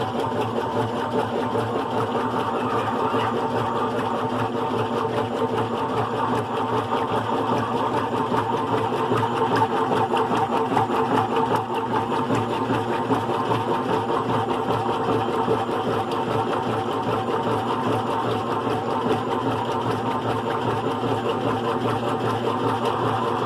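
GE Profile top-load agitator washer running on its single-speed motor, a steady mechanical hum and whir that does not let up.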